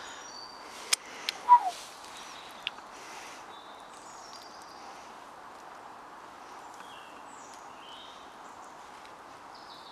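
Small birds giving short high chirps and calls over a steady outdoor background hiss. A few sharp clicks and taps come in the first three seconds, the loudest about a second and a half in, from a folding knife being handled over foil-wrapped food.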